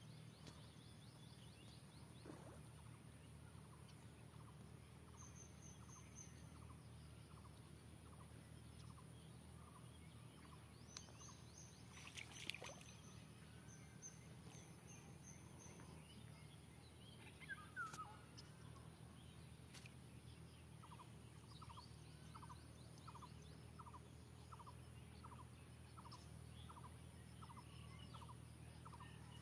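Quiet outdoor ambience with a faint low rumble, and a few faint high chirps and two light knocks in the first half. In the last third a bird repeats a short note over and over, a little under two a second.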